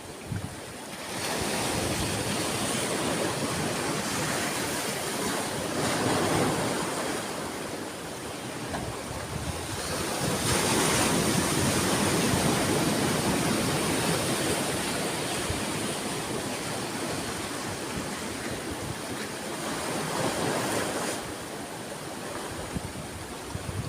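Sea waves washing ashore: a steady rush of surf that swells and eases in several surges, the biggest about halfway through.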